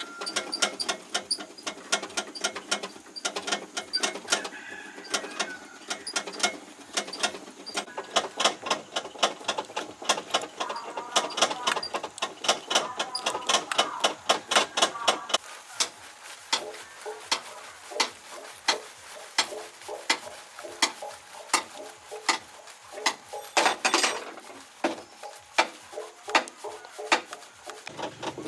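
Rapid, irregular mechanical clicking and tapping, several strikes a second, with a short scraping sound about three quarters of the way through.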